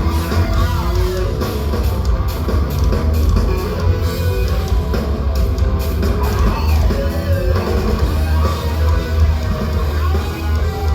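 Heavy metal band playing live at full volume: electric guitar and drum kit over a heavy, booming low end.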